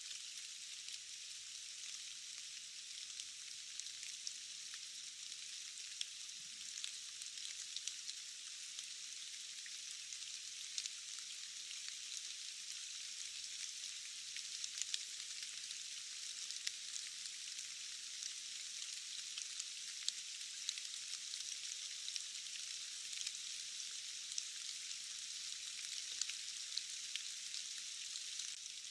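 Steady rain falling as an even, thin hiss with no low rumble, dotted with many small ticks of individual drops.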